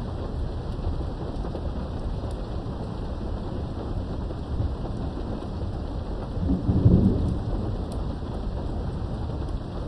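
Steady rain with a low roll of thunder that swells and fades about two-thirds of the way through, heard from indoors behind a window.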